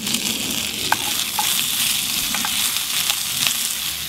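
Diced peppers and salami sizzling in hot oil in a cast-iron pan, stirred with a wooden spoon, with a steady hiss and a few short clicks.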